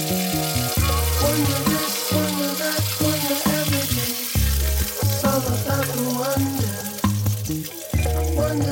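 Food sizzling and hissing as it fries in a pan, under background music with a stepping bass line and a melody.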